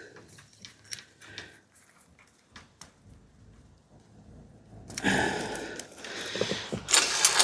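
Worn-out bicycle chain being broken with a chain tool and pulled off the bike: faint clicks at first, then a louder metallic rattling clatter from about five seconds in as the chain runs off.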